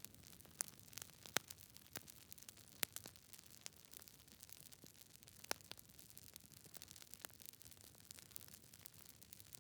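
Campfire crackling: irregular sharp pops and snaps of burning wood, a dozen or so scattered unevenly, over a faint steady hiss.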